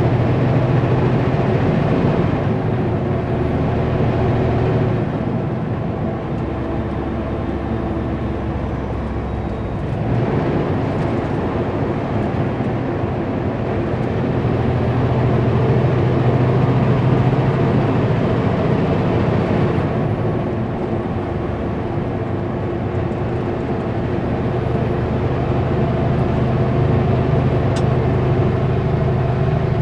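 Kenworth W900L semi truck's diesel engine running under load while pulling a Super B trailer set. Its note drops and climbs back a few times as the revs change.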